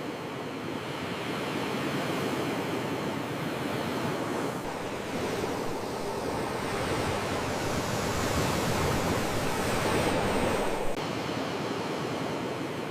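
Sea waves washing on the shore, the surf swelling and easing, loudest about ten seconds in, then dropping off suddenly.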